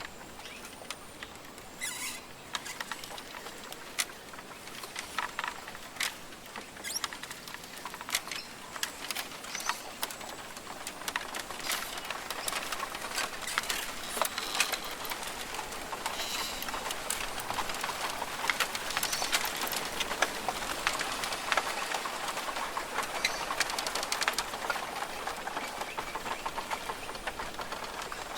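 Australian rainforest ambience: scattered crackling and pattering clicks with occasional bird sounds, over a hiss that grows louder from about halfway through.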